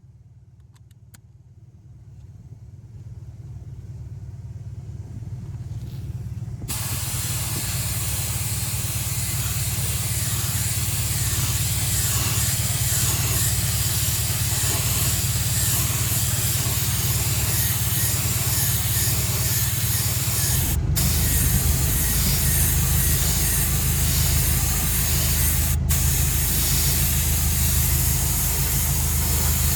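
Paint being sprayed onto an alloy wheel: a loud, even spray hiss that starts abruptly and breaks off twice for a moment, over a steady low hum.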